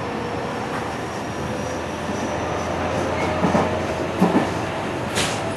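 Running noise heard inside the car of a JR West 207 series electric commuter train under way: a steady rumble of wheels and running gear with a faint whine. A couple of knocks come about three and a half and four seconds in, and a brief hiss near the end.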